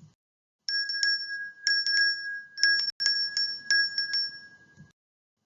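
A bell-like chime rings with about a dozen quick, uneven strikes over roughly four seconds. Every strike sounds the same clear pitch with a higher overtone, then the ringing stops abruptly.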